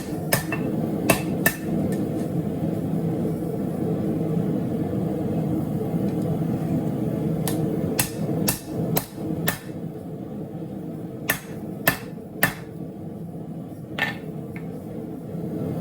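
Hammer blows on a steel coil spring being straightened for forging: three quick strikes at the start, a pause, then a run of about two blows a second and a few slower, spaced blows near the end. A steady low drone runs underneath.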